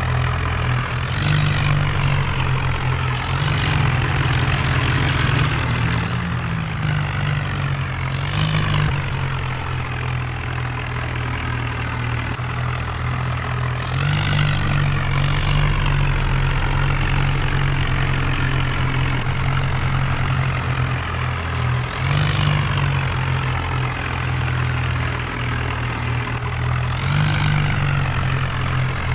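Tractor engine running with a steady low hum, swelling several times, with short bursts of hissy noise at those moments.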